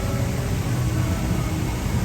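Steady city street noise on a rainy day: an even hiss of rain over the low rumble of traffic.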